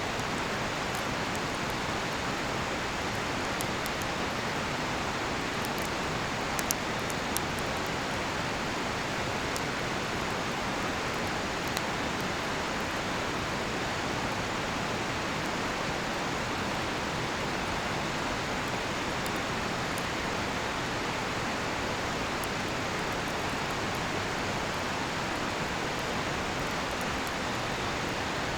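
Steady rushing of a nearby river, with a few sharp crackling pops from a cedar-wood campfire. The loudest pops fall about a quarter of the way in.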